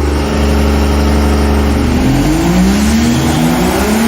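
Dodge Cummins inline-six diesel fitted with 17 turbochargers running, then revving up about halfway through in one rising sweep and holding the higher speed. The turbos are spinning and making boost.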